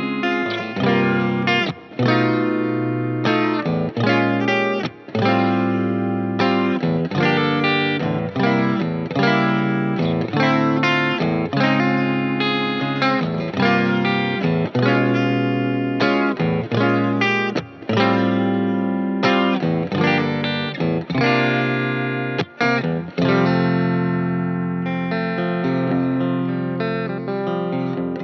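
Fender Player Plus Top electric guitar played through effects with a touch of distortion: a run of struck chords and phrases with short breaks between them, ending on a chord left ringing for the last few seconds.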